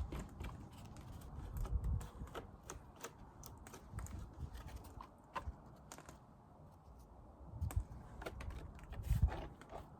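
Irregular small clicks and taps from wooden beehive frames being handled, with a few low muffled thumps about two seconds in and again near the end.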